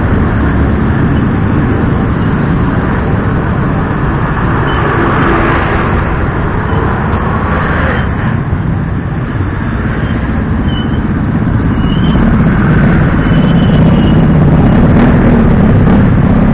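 Motorcycle riding in traffic, heard from the rider: a steady rush of engine and wind noise that grows louder about twelve seconds in.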